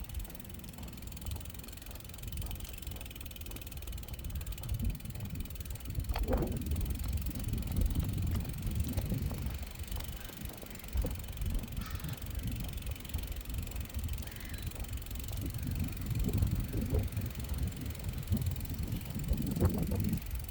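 Wind rumbling on the microphone while a bicycle is ridden along a path, with the tyres rolling underneath.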